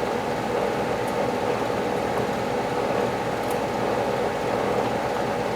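Steady whirring hum of a running fan, even throughout, with a couple of faint light ticks.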